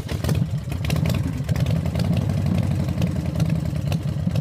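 Chevrolet Suburban engine running steadily with an even low drone.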